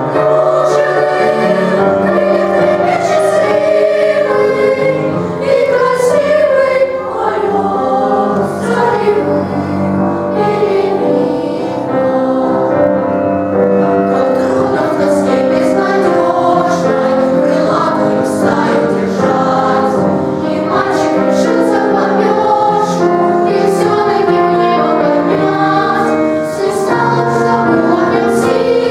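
Boys' choir singing a song in several voice parts, with sustained, changing notes.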